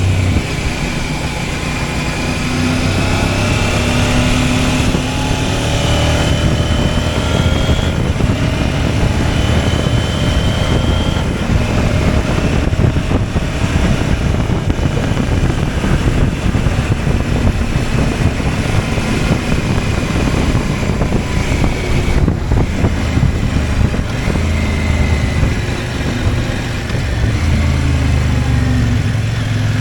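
CFMOTO 800MT parallel-twin motorcycle engine running under way, its pitch climbing and dropping as the bike accelerates and eases off.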